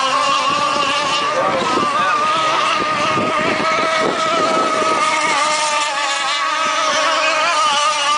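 Gas-powered radio-controlled rigger racing boats' small two-stroke engines running at high revs: a steady, high whine that wavers slightly in pitch.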